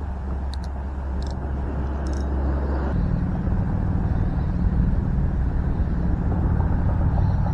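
Steady rumble of wind buffeting the microphone, growing louder, with a few short light clicks in the first two seconds as the fishing reel's drag is tightened.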